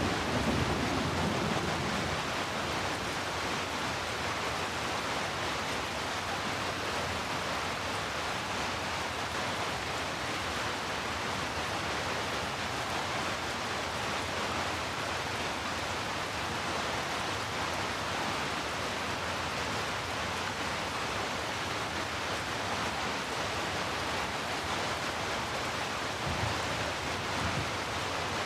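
Heavy rain falling steadily, an even hiss. The tail of a thunder rumble fades out in the first couple of seconds.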